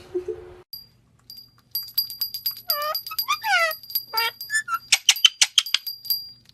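Parrot calling in short squawks and chirps that slide downward in pitch, over a rapid run of high beeps.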